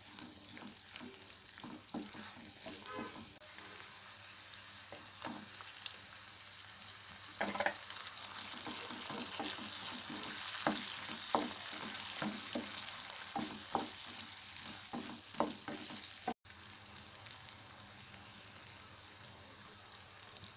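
Onions, carrots and green chillies with whole spices sizzling in hot oil in a pan, with a spoon scraping and clacking against the pan as they are stirred. The stirring stops about three-quarters of the way through, leaving only a steady sizzle.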